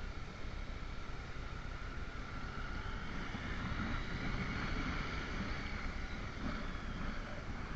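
Motorcycle engine running while riding, mixed with wind rushing over the microphone; the sound swells a little midway.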